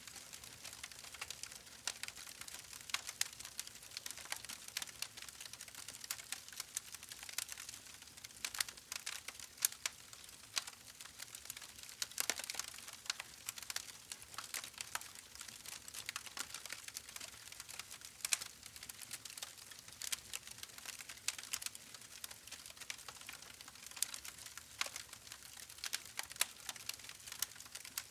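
Wood fire in a fireplace crackling: dense irregular pops and snaps over a steady hiss.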